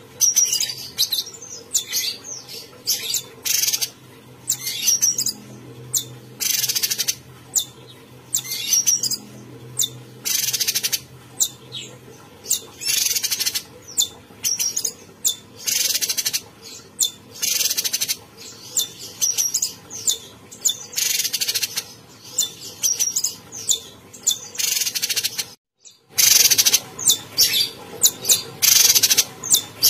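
A cucak cungkok singing vigorously: loud, short, high calls repeated one after another with brief pauses, over a faint steady hum. The song drops out for a moment about three-quarters of the way through.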